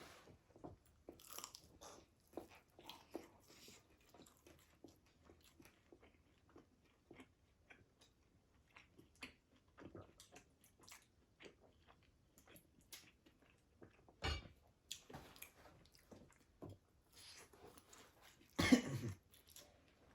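Close-miked chewing and crunching of fried food, many small crackly bites throughout. A louder sudden sound comes about 14 seconds in, and the loudest one a little before the end.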